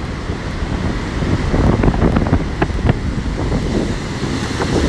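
Strong storm wind buffeting the microphone, over the rush of heavy surf from a stormy sea.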